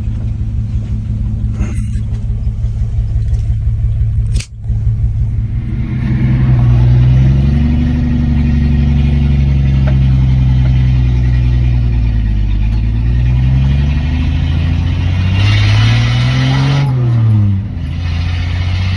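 1967 Dodge D100's 225 slant-six engine running under way. There is a brief break about four and a half seconds in. Then the engine note climbs and falls twice as the truck accelerates and eases off, with another short dip near the end.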